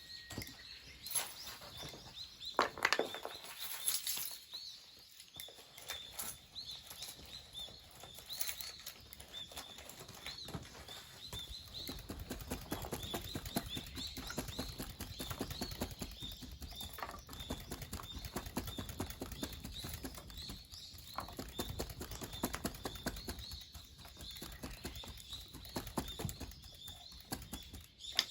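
Irregular clicking and rustling that thickens after about twelve seconds, with a bird chirping again and again in the background.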